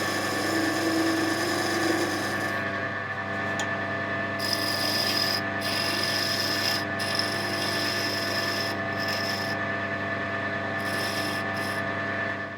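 Wood lathe motor running with a steady hum while a turning tool cuts a spinning wooden clock finial. The cutting hiss comes in passes with short breaks, and the lathe shuts off at the end.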